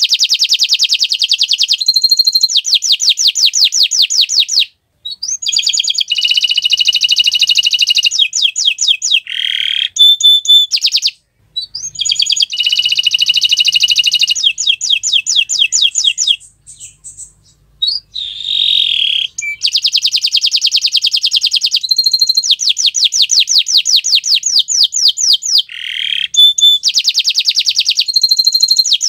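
Domestic canary singing long, loud song phrases of rapid trills and rolling repeated notes, broken by a few short pauses.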